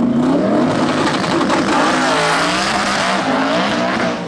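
Drag racing cars running at full throttle down the strip, engine pitch sweeping up and bending back down over the middle of the stretch.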